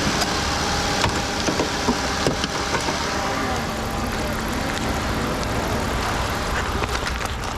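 Vehicle engine idling steadily, with a few sharp clicks and taps over it in the first few seconds.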